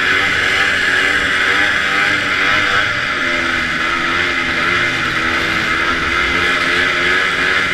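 Antique snowmobile's two-stroke engine running at racing speed, its pitch wavering up and down, over a steady loud rush of wind and track noise.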